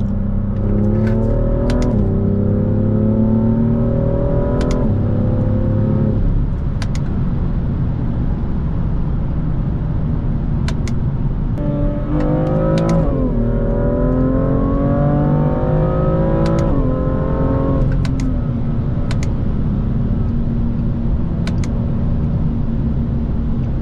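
BMW M2 F87's turbocharged inline-six pulling hard through the gears twice, each rise in pitch cut by a quick drop at the upshift. The first pull starts right away and eases off about six seconds in. The second starts about twelve seconds in and eases off about eighteen seconds in, with steady cruising between and after. Scattered sharp ticks sound over the engine.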